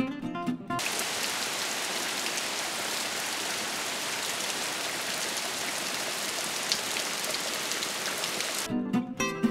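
Rain falling steadily outdoors, an even hiss for about eight seconds. Acoustic guitar music cuts off just before the rain and comes back near the end.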